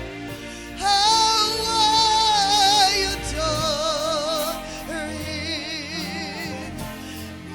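Worship music with singing: a high voice holding long notes with wide vibrato, in several phrases.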